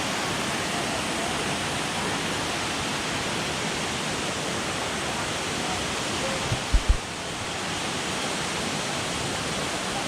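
Waterfall rushing steadily, a dense even roar of falling water. About seven seconds in come two brief low thumps.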